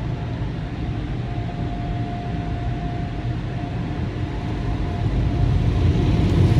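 Steady low mechanical rumble with a faint, thin steady whine, growing louder about five seconds in.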